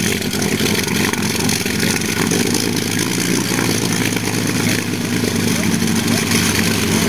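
Piston aircraft engine running steadily, a loud, even drone that holds its pitch.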